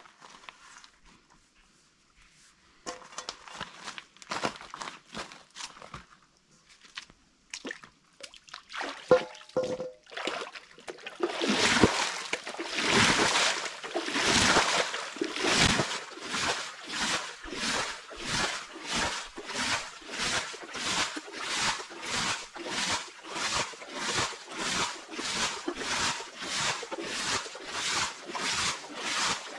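Water sloshing and splashing in a steady rhythm, about one and a half strokes a second, after some scattered knocks and splashes in the first ten seconds or so.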